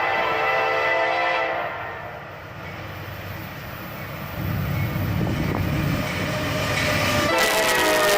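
Freight diesel locomotive's multi-chime air horn sounding, cutting off about a second and a half in. Then the rumble and rail noise of the passing train, with the horn sounding again near the end.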